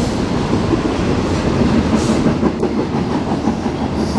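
Freight train cars rolling past at track speed: a steady, loud rumble of steel wheels on rail, with a few sharp clicks over the joints.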